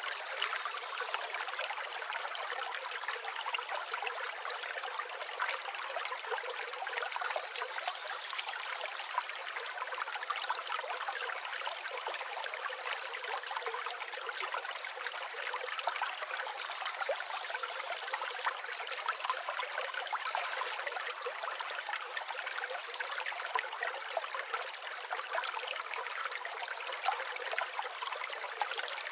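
River water flowing and babbling: a steady rush made of many small splashes and trickles. A faint, high bird note comes twice, about seven and nineteen seconds in.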